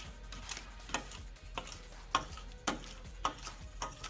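A mixing utensil knocking against a bowl in steady strokes, about two clicks a second, while thick cheesecake filling is stirred by hand.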